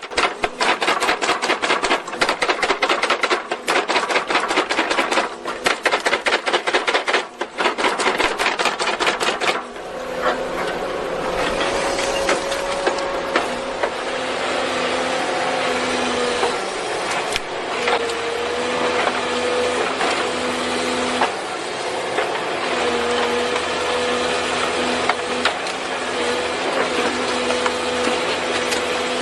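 Heavy stump-removal machinery at work on a tree stump. For about the first ten seconds there is a fast, dense clatter of strikes on wood, then a steady machine drone with a whine.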